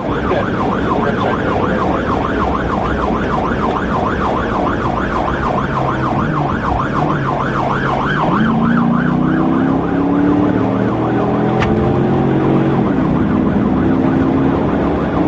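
Police cruiser siren on a fast yelp, about three rises and falls a second, over steady road and engine noise heard from inside the car; about eight seconds in the engine note climbs as the car accelerates and the siren fades out soon after.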